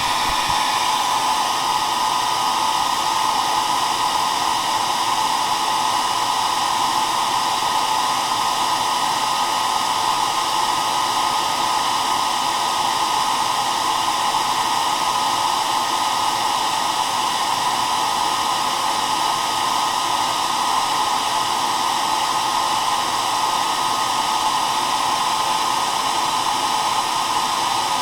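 Electric hair dryer running steadily: an even rush of air and motor noise, strongest in the middle range, with no change.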